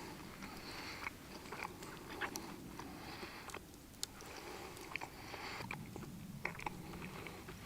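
A person chewing a mouthful of steak in cheese sauce close to the microphone, with short mouth clicks scattered through the chewing.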